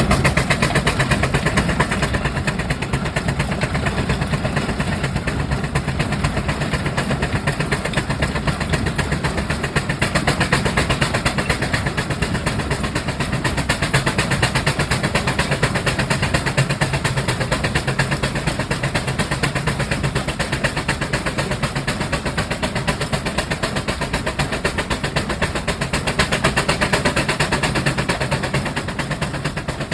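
Burrell steam traction engine running along the road, its exhaust beating in a fast, steady rhythm that carries on unbroken throughout.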